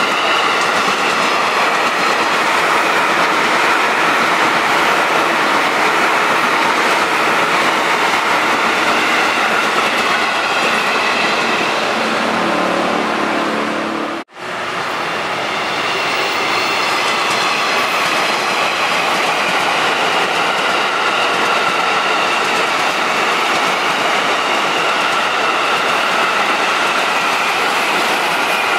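Electric commuter trains passing at speed: a steady loud rush of steel wheels running on the rails, with faint steady high tones over it. About halfway through the sound cuts off abruptly for a moment, then another passing train picks up.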